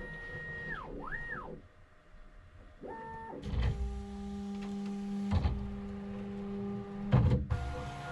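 Bambu Lab P1S 3D printer's stepper motors driving the axes through a series of moves. Each move is a whine that rises in pitch, holds steady and falls away, with a longer, lower one in the middle. Two sharp knocks come a little past five seconds and about seven seconds in.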